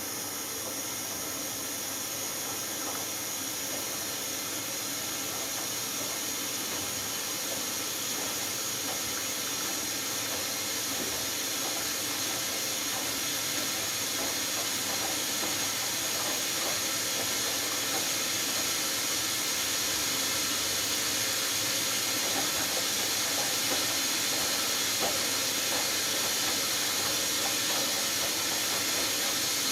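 Hoover Dynamic Next washing machine filling with water for its last rinse: a steady hissing rush of water through the inlet valve and detergent drawer, growing slowly louder.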